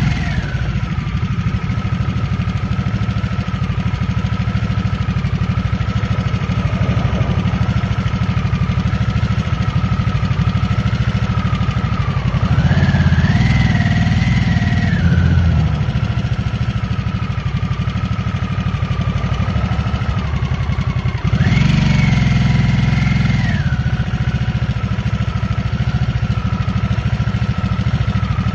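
2023 Harley-Davidson Nightster's liquid-cooled Revolution Max 975T V-twin running steadily while cruising. Its note rises and holds as the throttle is opened twice, a little before halfway and again about three-quarters through, then settles back.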